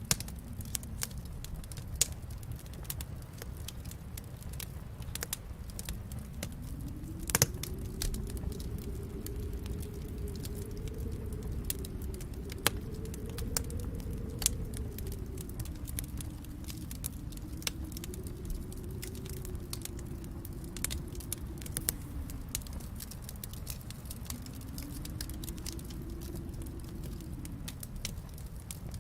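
Wood fire crackling in a fireplace, with irregular sharp pops, the loudest about seven seconds in, over a low rumble that slowly swells and fades.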